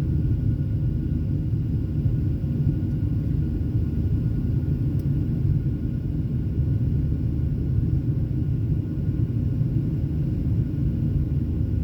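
Steady low rumble of a Boeing 737 in flight, its engines and airflow heard from inside the passenger cabin, with a faint steady whine above the rumble.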